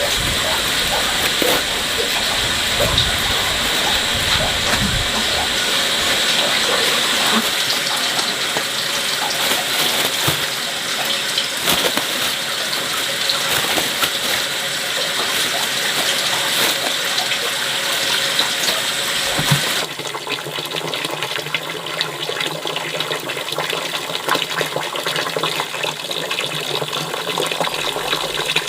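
Water running in a steady rush, a little quieter from about twenty seconds in.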